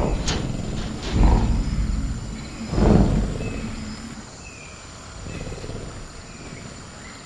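Sound-effect velociraptor growling, two loud low rumbling growls about a second and three seconds in, over a steady high chirr of crickets and a few faint bird chirps.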